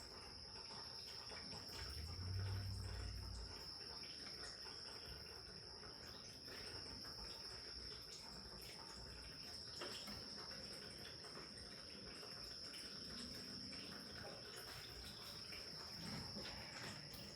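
Faint scattered clicks and light knocks of hand work on the power steering pump and hoses, under a steady high-pitched whine, with a brief low rumble about two seconds in.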